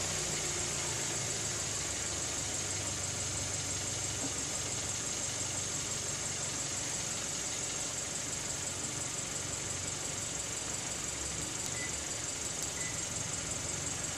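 Kia K7 (Cadenza) engine idling steadily, with a steady high hiss over it.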